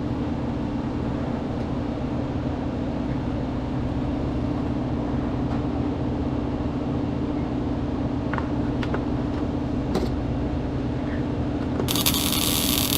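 Steady machine hum with a strong low tone, and a loud hiss that starts about a second before the end.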